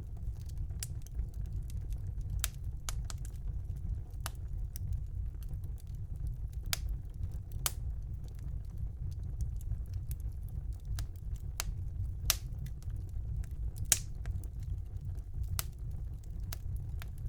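Wood fire burning in a fireplace: a steady low rumble of the flames with irregular sharp crackles and pops, a few louder pops among them.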